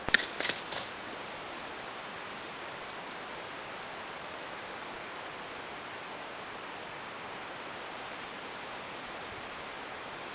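Steady hiss of microphone noise. In the first second there is a sharp click followed by a few short, high chirp-like sounds.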